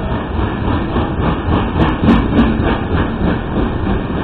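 Coal cars of a freight train rolling past close by: a steady rumble of steel wheels on the rails, with a quick run of clacks as wheel sets cross a rail joint between about one and three and a half seconds in.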